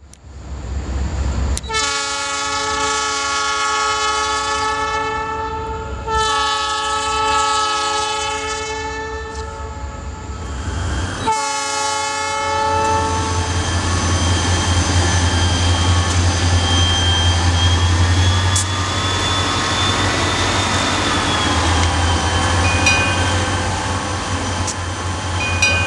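Freight locomotive horn sounding three blasts, two long and one short, followed by the steady low rumble of a crude oil tank-car train rolling past with a thin high squeal.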